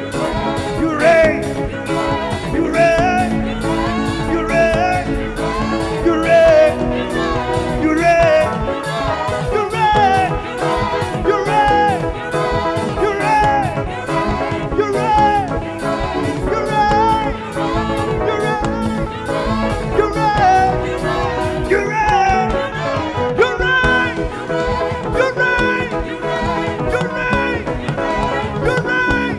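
A live church praise band playing upbeat gospel music, with a steady drum beat under a lead melody that bends and slides in pitch.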